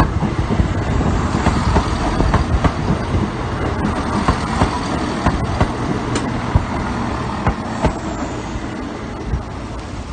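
Diesel multiple-unit passenger train passing over the crossing, its wheels clicking over the rail joints, the sound slowly fading toward the end.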